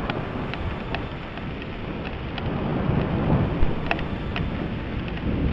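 Thunder rumbling low, swelling about halfway through, over steady rain with scattered sharp ticks of drops.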